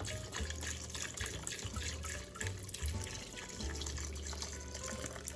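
Vegetable broth being poured into a cooking pot, a continuous splashing pour.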